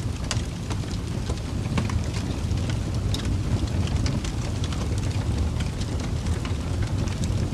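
Wood fire crackling in a fireplace, with frequent irregular sharp pops and snaps over a steady low rumble of the burning.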